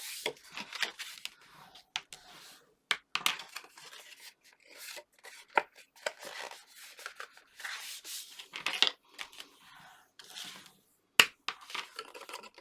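White card stock being scored and folded along its score lines: short scraping, rubbing swishes with scattered clicks and taps, and one sharp knock near the end.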